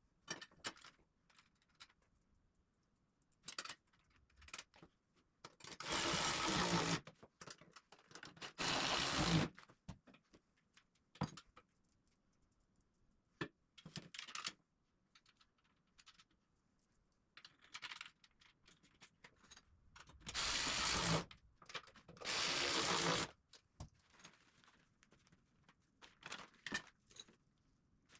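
Bolts being fastened on the corners of a steel welding table: two pairs of loud, noisy runs about a second long each, with scattered clicks and clinks of metal hardware being handled between them.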